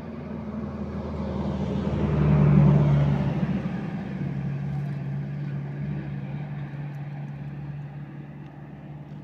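A motor vehicle's engine running with a steady hum. It grows louder to a peak about two and a half seconds in, then slowly fades.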